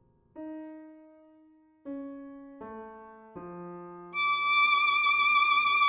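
MIDI-synthesised music: four single keyboard notes, each struck and dying away, stepping down in pitch, then a much louder high sustained violin-like note with vibrato entering about four seconds in.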